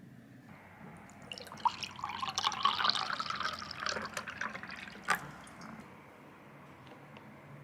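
Water running and splashing for about four seconds, ending with a sharp click.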